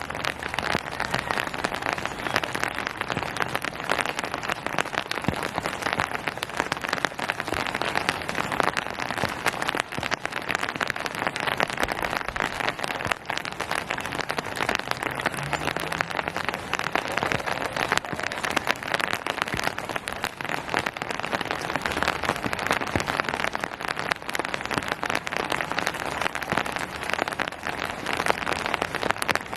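Steady rain falling on a surface: an even, dense patter of many drops.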